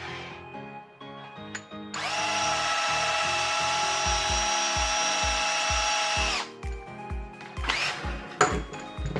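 Small power tool motor, drill-like, whining at a steady pitch for about four and a half seconds and then cutting off, over background music with a steady beat.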